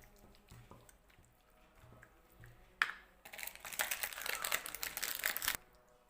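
Kitchen handling noise during a chicken marinade: a sharp tap about three seconds in, then about two seconds of loud crackly rustling that stops suddenly.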